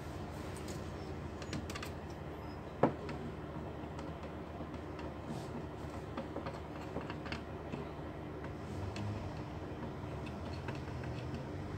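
Scattered light clicks and taps of a laptop's plastic case parts being handled during repair, with one sharp, louder click about three seconds in, over a steady low hum.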